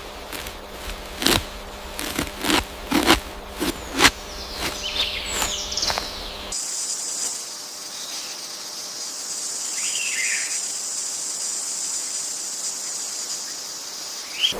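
Wild forest ambience. A run of sharp clicks comes first, mixed with a few high, falling bird calls. About six and a half seconds in the sound changes abruptly to a steady, high insect buzz, with one short bird call partway through.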